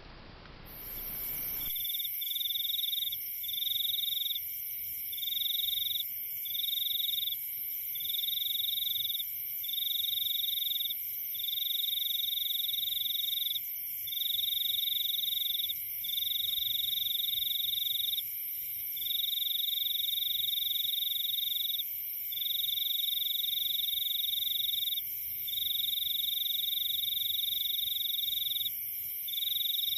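Forest chorus of calling animals: several high, continuous trills layered together, with a louder shrill trill that switches on and off every second or two. The trills come in after a brief broad hiss that cuts off abruptly.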